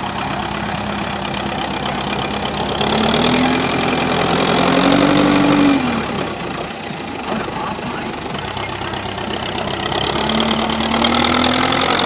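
Tractor diesel engine labouring under load, revved up twice: the pitch climbs and holds for a few seconds, drops back, then climbs again near the end.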